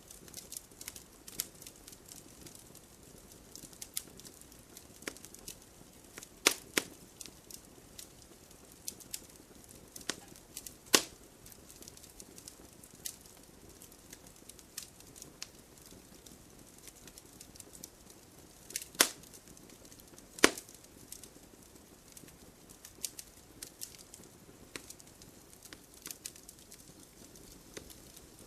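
Wood campfire crackling: a soft bed of fire noise with irregular small crackles and a few loud, sharp pops.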